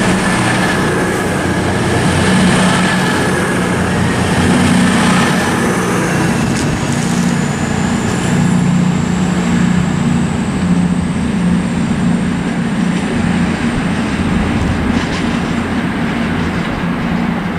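CrossCountry Class 220 Voyager diesel-electric multiple unit running through the station under power, its diesel engines giving a steady heavy drone. A thin high whine rises in pitch partway through as it gathers speed.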